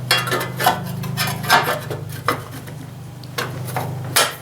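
Clicks, knocks and rubbing of parts and tools being handled while working on a lawn mower engine, over a steady low hum that stops about four seconds in.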